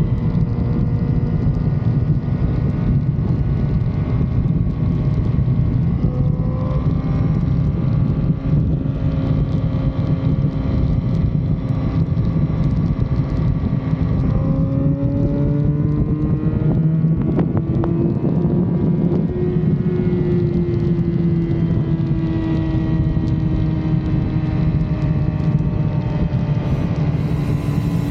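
2006 Yamaha R6's 600 cc inline-four on its stock exhaust, running steadily with wind noise on the microphone; its pitch climbs about halfway through, then eases slowly back down.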